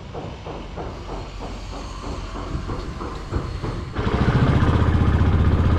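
A motorcycle engine comes in suddenly about four seconds in and runs loudly with a fast, even beat. Before it, a faint rhythmic clicking repeats about three times a second.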